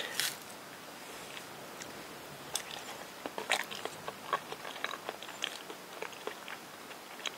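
A person biting into and chewing a peeled banana close to the microphone, with soft, wet mouth clicks scattered through.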